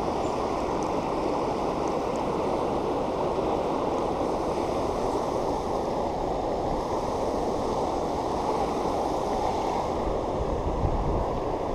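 Steady rush of water pouring over a river waterfall, with some low rumbling near the end.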